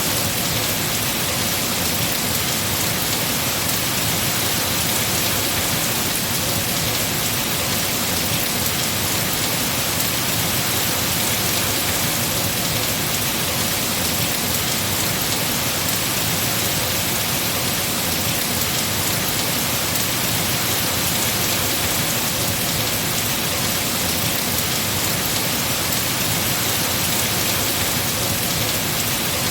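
Heavy rain falling steadily on trees, an even hiss with no pauses or swells.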